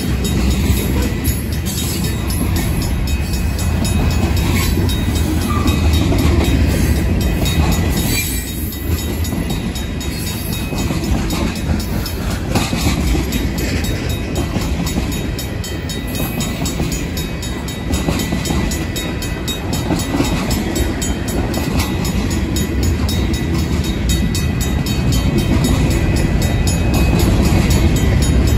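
Loaded freight cars of a Union Pacific train rolling past at a grade crossing: a steady heavy rumble of steel wheels on the rails with clicking over rail joints. The crossing's mechanical bell rings steadily over it.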